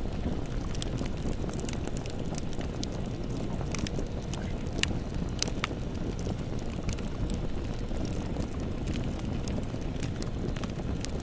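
Campfire burning: a steady low rumble of the flames with scattered sharp crackles and pops from the wood.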